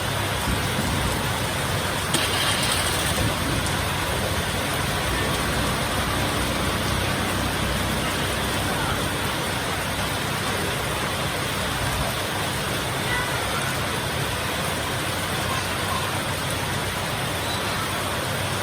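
Heavy rain pouring steadily, with a low rumble underneath that drops away about two-thirds of the way through.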